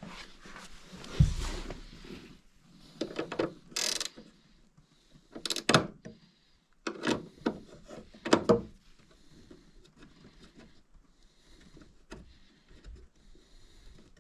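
Irregular knocks and scrapes from hand work, clustered in the first eight or nine seconds and strongest at about one, five and a half and eight and a half seconds in, then only faint room noise.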